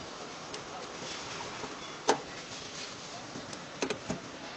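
A few sharp knocks or taps: one about two seconds in and a quick cluster of two or three near the end, over a steady background hiss.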